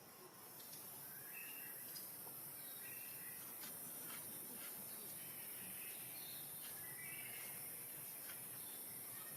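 Faint short high-pitched animal calls, a few at a time every couple of seconds, over a steady high hiss of insects, with a few light clicks.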